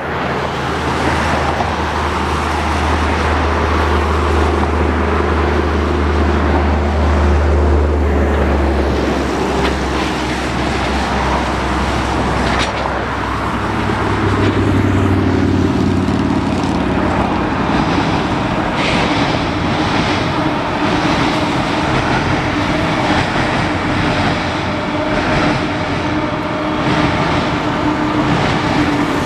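Canadian Pacific freight train passing. Diesel locomotive engines drone low and loud for the first nine seconds or so, then the freight cars roll by with a steady rumble and faint regular ticks.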